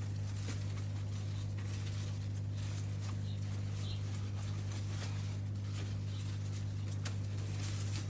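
A steady low hum runs throughout, with faint scattered rustles and light clicks of plant stems and leaves being handled and tucked in.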